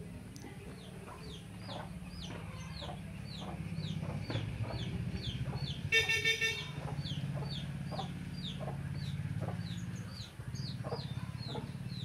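A small bird chirping over and over, short falling chirps two or three times a second, over a low steady hum. About six seconds in, a brief horn-like toot sounds.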